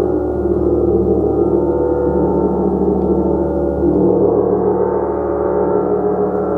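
Gong played continuously, a dense, sustained wash of many overlapping tones with no single strike standing out.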